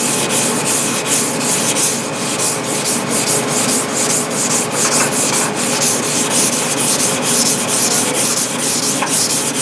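A knife blade is worked back and forth over a wet 1000-grit whetstone at about a 15-degree angle, giving a gritty scraping hiss in quick, even strokes.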